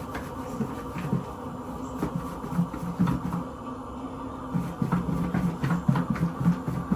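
Catfish pieces being shaken in a covered container of seasoned fish-fry breading: a run of quick, uneven knocks and rattles, getting busier about halfway through, over a steady low hum.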